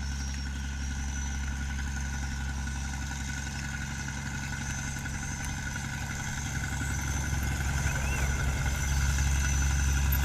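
Cargo boat's engine running steadily, growing louder about seven seconds in.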